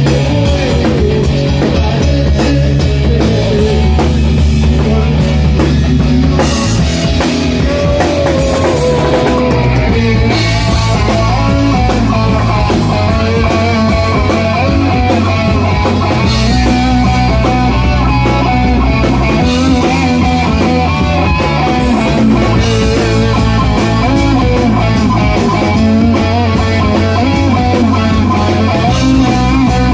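Rock band playing: electric guitar over drum kit and a bass line, the low notes shifting every few seconds.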